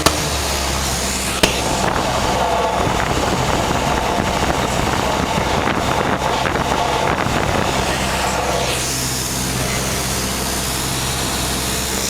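Small airplane's piston engine and propeller droning steadily, with two brief sharp clicks, at the start and about a second and a half in.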